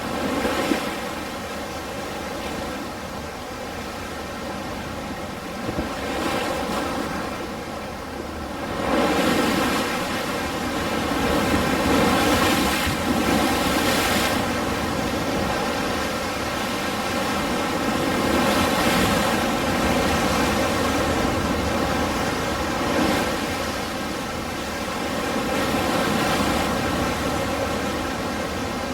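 Ocean surf washing in continuously, swelling louder and easing back every few seconds, with the biggest surge about a third of the way in. A faint steady hum runs underneath.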